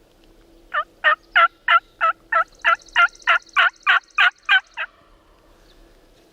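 Turkey call sounding a long series of hen yelps, about thirteen loud notes at roughly three a second, each note breaking downward in pitch; a hunter's call sent out to draw a response from the gobblers. A fainter high rattle runs underneath through the middle of the series.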